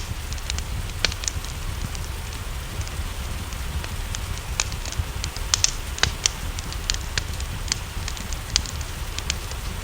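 Wood fire crackling in a fireplace, with frequent irregular sharp pops, over a steady hiss of rain and a low rumble.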